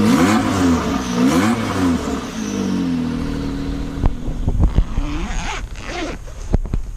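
Motorcycle engine revved in several quick throttle blips, its pitch rising and falling, then dropping back to a steady idle about three seconds in, with a few sharp knocks near the end.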